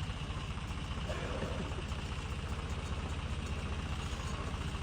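Tractor engine running steadily with a low, even throb while it pulls a tobacco setter through the field.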